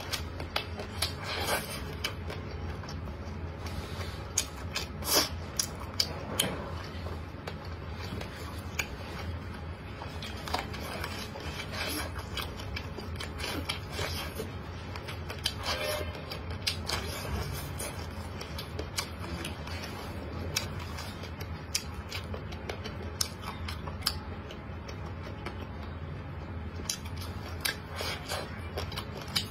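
Eating sweet waxy black corn on the cob: irregular soft bites, clicks and chewing sounds over a steady low hum.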